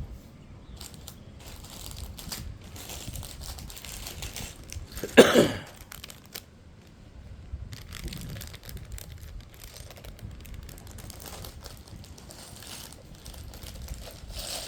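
Plastic Lego polybag being handled and torn open, crinkling on and off, with one loud rip about five seconds in.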